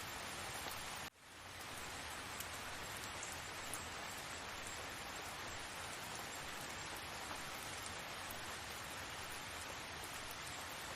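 Steady rain falling, an even hiss of many drops. About a second in it cuts out suddenly and fades back in within half a second.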